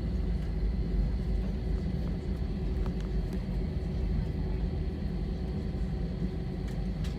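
Airliner cabin noise: the jet engines and airflow make a steady low rumble with a faint hum inside the cabin.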